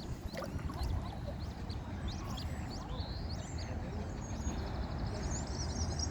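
Small birds peeping and chirping with many short high-pitched calls, including a quick run of chirps near the end, over a low steady rumble.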